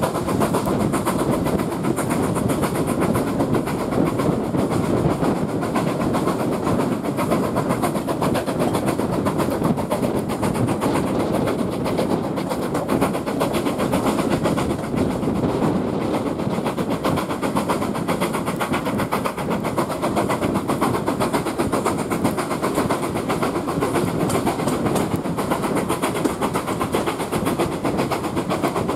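A steam-hauled passenger train under way, heard from an open carriage window: the carriages running steadily along the track with a continuous loud rumble and rushing noise.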